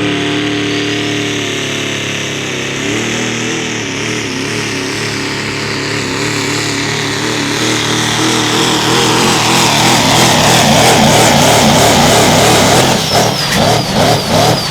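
Diesel pickup truck engine running hard under load while pulling a sled, growing louder over the second half, then surging and dropping several times in quick succession near the end.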